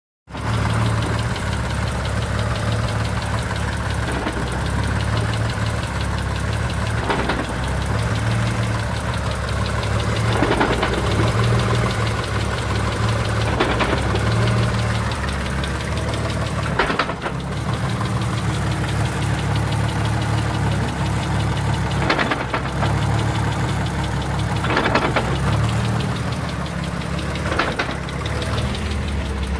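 Mitsubishi 3000GT VR-4's twin-turbo V6 running, with a sharp clunk every few seconds, about seven in all. The clunk is the fault being chased, a loud clunk when the clutch is let out.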